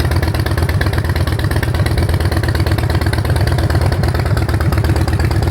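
Harley-Davidson Street Bob's 96-cubic-inch V-twin idling steadily through aftermarket Vance & Hines exhaust pipes, a loud, even, fast pulsing run.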